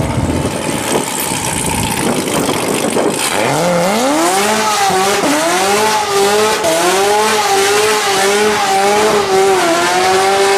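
Car doing a burnout: loud tyre noise at first, then about three seconds in the engine revs climb quickly and are held high, wavering slightly, over the hiss of the spinning tyres.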